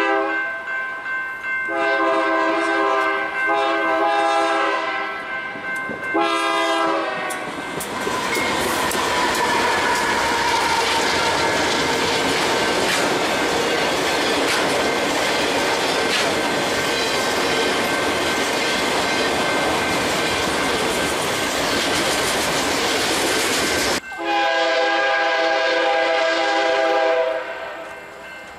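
A BNSF freight locomotive's multi-chime horn sounds several blasts, then the train of autorack cars passes close by with a steady rush of wheel and rail noise and clickety-clack. About 24 seconds in, the sound cuts sharply to another oncoming locomotive's horn blowing one long blast.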